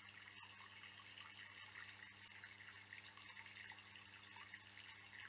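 Steady rainfall, a soft, even patter of rain.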